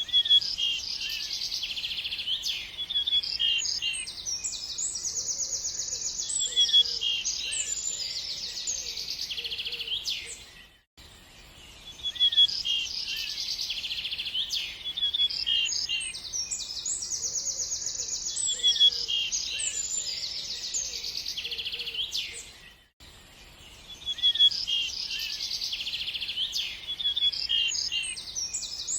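Many small birds chirping and trilling together in a dense, high-pitched chorus. The same stretch of birdsong repeats about every twelve seconds, with a brief drop in level between the repeats: a short recording looped.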